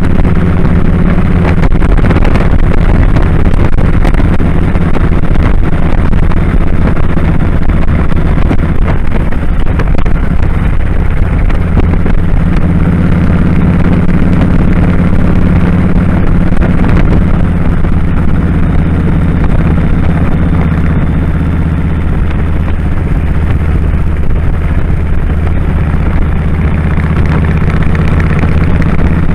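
2001 Kawasaki Drifter 1500's V-twin engine running steadily under way, mixed with loud wind rush over the microphone.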